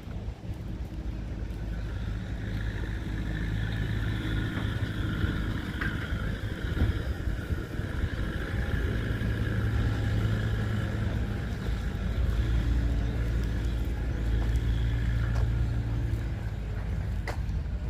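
A car engine running close by, a steady low hum that grows louder over the first few seconds and then holds.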